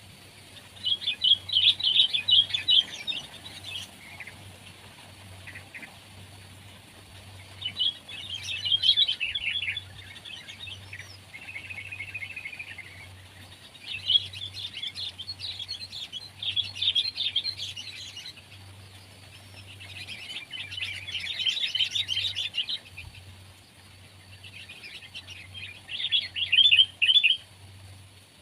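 Sooty-headed bulbul calling in repeated bouts of quick chirping notes, each bout lasting a second or a few seconds, with short pauses between them.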